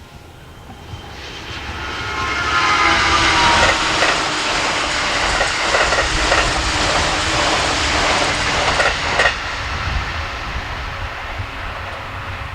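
A train passing at speed: a rushing noise builds over about three seconds, with whining tones sliding down in pitch, then the wheels clack over rail joints as the cars go by, and the high rush drops away about nine seconds in.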